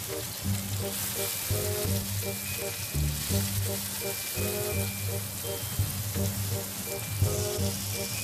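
Sliced bell peppers sizzling in a hot frying pan, over background music with a quick run of short notes.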